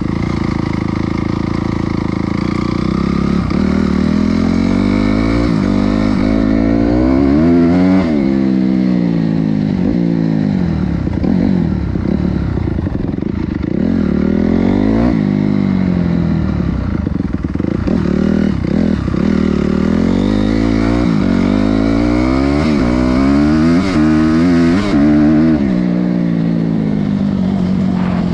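Honda CRF250R's single-cylinder four-stroke engine being ridden hard, its pitch climbing and dropping again and again as it accelerates and backs off, with the biggest climbs at about eight, fifteen and twenty-five seconds in.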